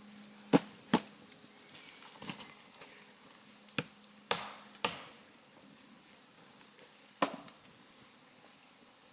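An axe chopping wood: about six sharp blows at an uneven pace, two near the start, three close together in the middle and one near the end, with a few lighter knocks in between.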